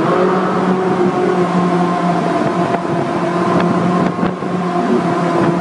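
Ferrari 458 Italia's V8 engine running at a steady, constant-speed drone while the car cruises through a tunnel.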